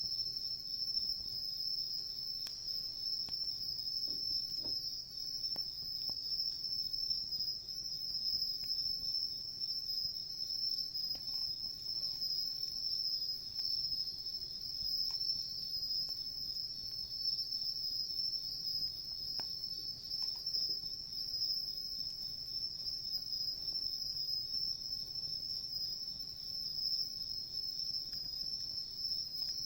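A steady, high chorus of crickets singing without a break. A few faint crackles from a wood campfire sound here and there.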